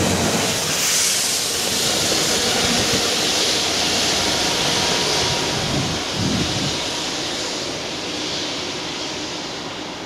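Rail Head Treatment Train of water-tank wagons moving away along the track: a steady high hiss over thinning wheel rumble on the rails, slowly fading. The hiss fits the train's high-pressure water jets blasting leaf film off the railheads.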